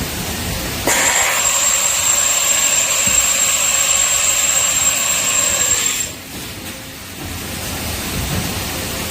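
Doosan HM 1250 horizontal machining centre running an automatic tool change cycle. About a second in, a loud hiss with a steady high whistle starts suddenly; it cuts off about five seconds later, leaving the machine's steady running noise.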